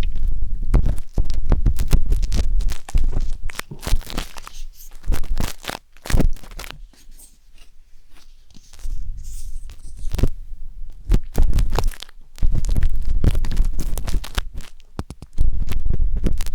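Wooden skewer scratching and scraping inside the silicone ear of a 3Dio binaural microphone, close-up, in quick irregular strokes with deep rumbling handling noise. About halfway through it goes quieter for a couple of seconds, then the scraping resumes.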